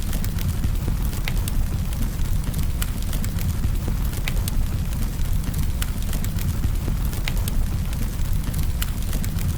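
Campfire burning: wood crackling and popping in irregular sharp snaps, a few every second, over the steady low rumble of the flames.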